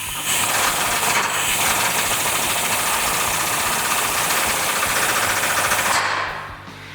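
Impact wrench hammering as it runs down the leaf spring bolt, a loud, rapid rattle with a hiss that stops abruptly about six seconds in.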